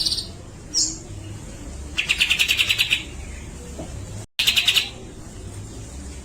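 Cucak jenggot bulbul (Alophoixus bres) calling: a short note at the start and a brief chirp just under a second in, then two rapid, buzzy rattles of about a second each, around two and four and a half seconds in. These rattles are the chattering 'besetan' that keepers prize in a bird in full song.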